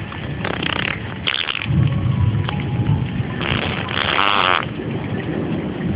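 Thunderstorm: steady rain with a low rumble of thunder. Several brief, higher-pitched noises come over it, the longest about four seconds in.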